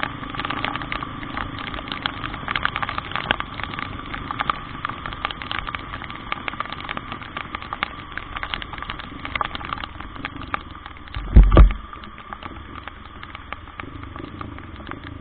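Heavy rain crackling with a dense patter of drops over a vehicle running. There is one loud low thump about eleven seconds in.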